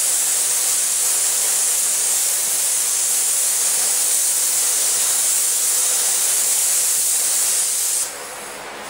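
Air spray gun spraying thick mixed paint, a steady loud hiss of air and atomised paint that cuts off about eight seconds in when the trigger is released.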